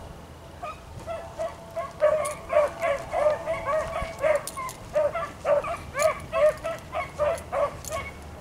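Beagles baying while running a cottontail rabbit's scent trail: a steady run of short, yelping bays, two or three a second, the sign of hounds on the line of the rabbit.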